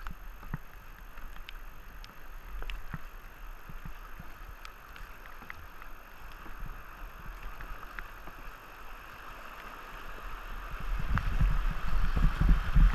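Kayak paddles dipping and splashing over the steady rush of river current, with scattered light knocks. In the last couple of seconds it grows louder, with heavy low rumbling and splashing.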